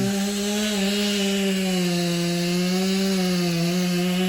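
Chainsaw held at full throttle, a steady high-revving run that wavers slightly and climbs a little near the end.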